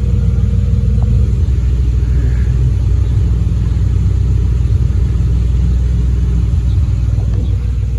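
Ford Mondeo ST220's 3.0 V6 idling steadily through an aftermarket exhaust system, a constant low exhaust rumble with no revving.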